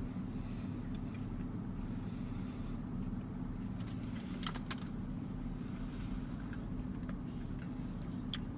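Steady low hum of an idling car engine, with a few short clicks about four and a half seconds in and again near the end.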